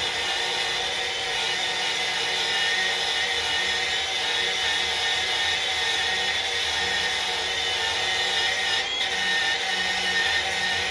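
Power tool running steadily with a steel wire brush, scouring a stone wall: a constant high whine over scratchy grinding, easing off briefly near the end.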